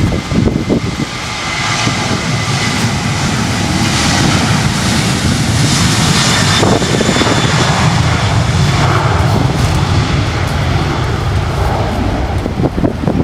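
An airliner's engines passing close, a roar with a deep rumble that builds over the first few seconds and stays loud, easing near the end. Wind buffets the microphone.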